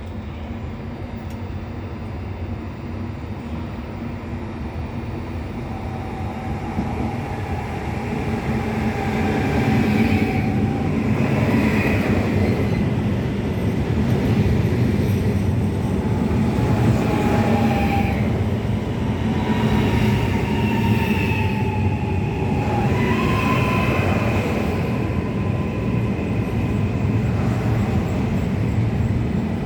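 Two coupled ETR 421 electric multiple units running, with a steady rumble and an electric whine that steps up in pitch several times as the train gathers speed. The sound grows louder from about a quarter of the way in, then holds.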